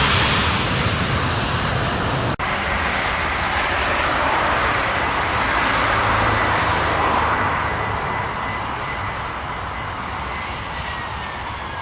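Jet airliner's engines during landing: a steady rush of engine noise with a faint high whine that drifts down in pitch near the end, fading a little over the last few seconds.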